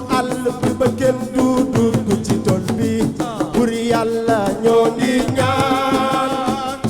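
Senegalese assiko music: fast, dense drum strokes under a melody line that bends in pitch.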